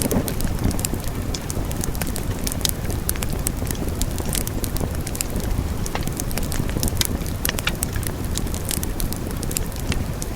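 Wood fire burning in a fireplace: a steady low rushing of the flames with frequent irregular sharp crackles and pops.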